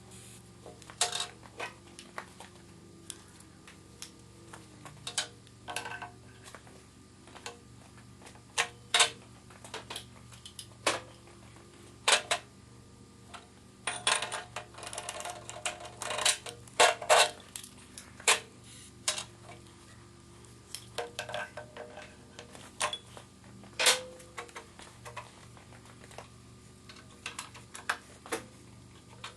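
Irregular metallic clinks and knocks of steel tools and engine parts being handled and set down on a workbench, a cluster of them in the middle.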